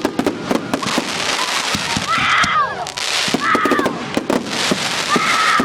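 Fireworks going off in rapid strings of sharp cracks and pops, dense and continuous like gunfire.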